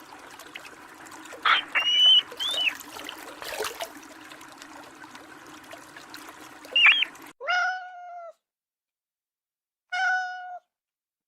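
A domestic cat meowing twice, each meow a short falling call, coming in after a sudden cut from a steady watery background with a few short high squeaks.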